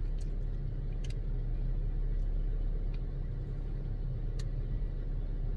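Steady low rumble of an idling car engine, with a few faint clicks over it.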